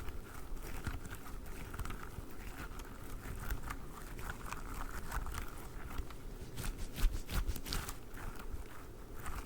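Hands squeezing and squishing a durian-shaped squishy toy close to the microphone: an irregular run of soft crackly, crunchy squishes, with one sharper crackle about seven seconds in.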